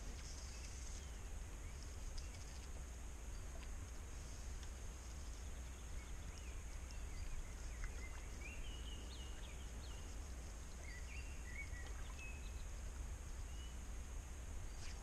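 Quiet outdoor ambience: a few short bird chirps in the middle, over a steady high hiss and a low rumble.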